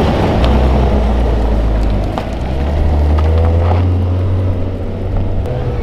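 Maserati Ghibli saloon's engine running at low revs as the car drives slowly past, a low steady drone.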